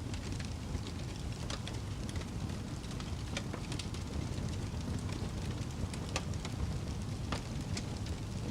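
Campfire burning: wood crackling with scattered sharp pops at irregular intervals over a steady low rumble.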